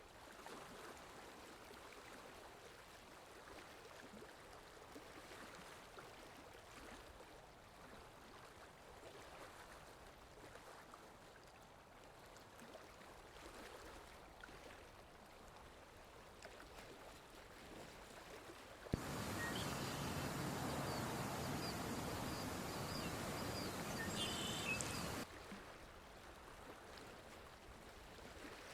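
Faint flowing water. About two-thirds of the way through, a louder stretch of rushing water with birds chirping starts abruptly and cuts off just as suddenly about six seconds later.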